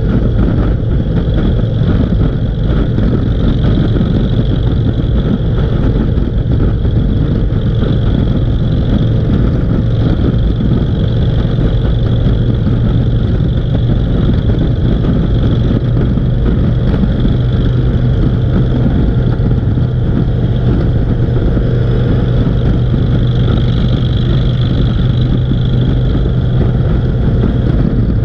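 A vehicle on the move: a steady engine drone with road noise, even and unchanging throughout.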